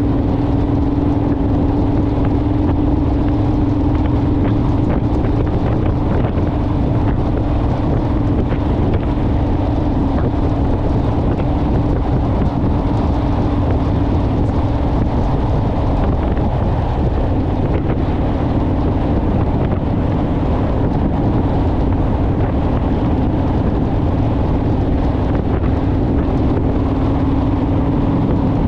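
Honda Rebel motorcycle's parallel-twin engine running at a steady cruising speed, its low hum held steady under strong wind rush on the microphone.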